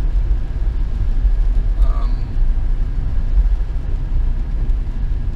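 Steady low engine and road rumble inside a moving car's cabin.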